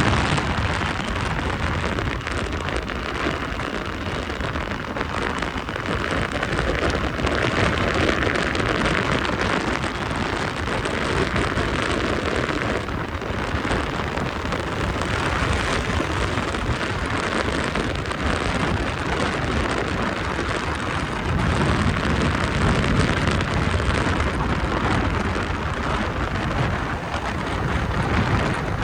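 Continuous rush of wind on the microphone and rain noise from a motorbike riding in light rain, with a faint tone that rises and falls several times.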